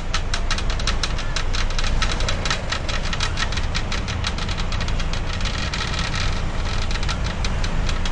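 Storm wind buffeting the microphone in a heavy, steady rumble, over a dense crackle of splashing water from wind-driven waves and spray.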